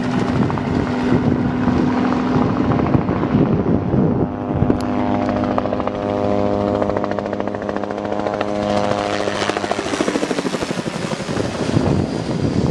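Helicopter running: a steady pitched engine drone over the fast, even chop of the rotor blades.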